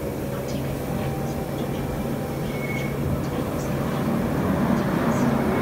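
Gornergrat Railway electric rack-railway train running, a steady hum and rumble that grows slightly louder near the end.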